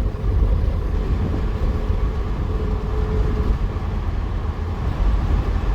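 Steady low rumble of engine, tyre and wind noise inside the cab of an old square-body pickup truck cruising at highway speed, about 70 mph.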